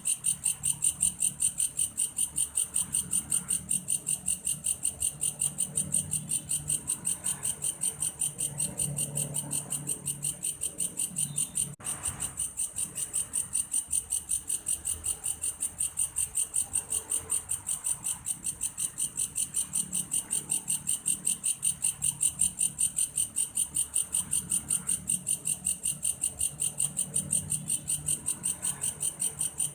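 Belalang kayu insect calling: a steady, fast train of high, even chirps, about three to four a second, with a brief dropout about twelve seconds in.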